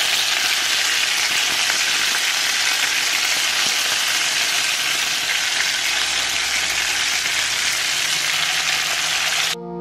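Hamburger patties frying in hot grease in a skillet: a steady, even sizzle that cuts off abruptly just before the end.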